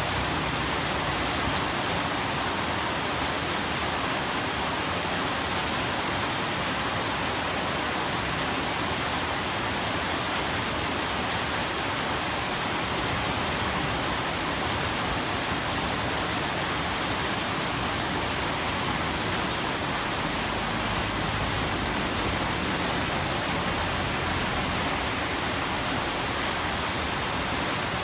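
Steady, even rain, a constant hiss of falling rain with no distinct drops or changes.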